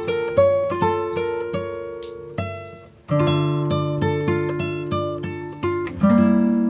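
Background music of plucked acoustic guitar: a run of single notes, each ringing and fading, with a brief drop-off about three seconds in before the next phrase begins.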